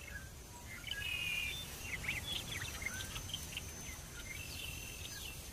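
Small songbirds chirping and singing: quick high notes, short trills and sliding whistles from several birds, busiest about a second to three seconds in, over a thin steady high-pitched hum.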